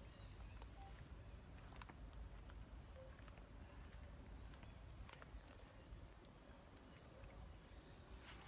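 Faint outdoor ambience: a high chirp that rises and then levels off, repeating roughly once a second, over a low rumble, with scattered small clicks.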